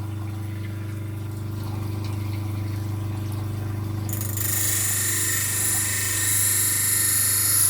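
Electric grinder motor running with a steady hum; about four seconds in a steel knife blade is put to it, adding a loud hissing grind of metal being ground away.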